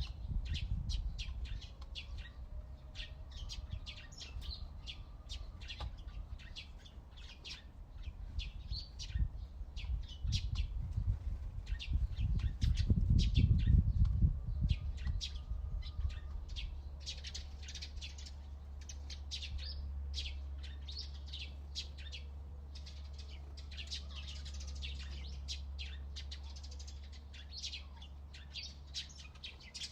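Backyard songbirds chirping and twittering: a dense stream of short, high chirps from several birds. Beneath them a low rumble swells about halfway through and then settles into a steady low hum.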